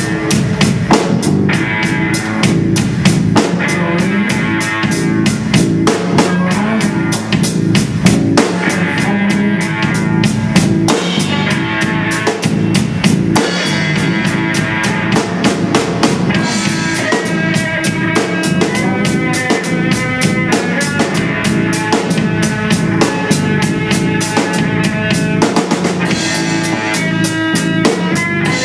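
Band music: a drum kit plays a fast, steady beat with bass drum and rim hits, under sustained pitched instruments.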